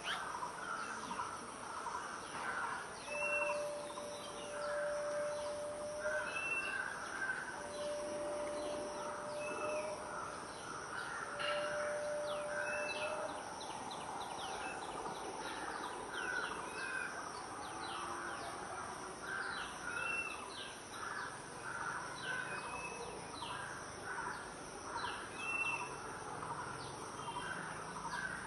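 Wild birds calling in a busy chorus of chirps and chatter. A short, clear note repeats every couple of seconds, and three long, steady low notes sound one after another in the first half.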